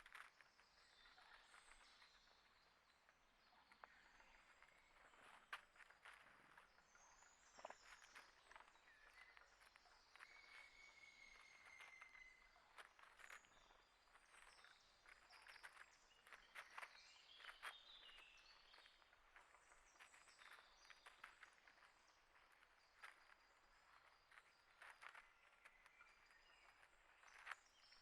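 Small birds chirping and calling faintly, with one short held whistle about ten seconds in, over many scattered faint clicks and taps.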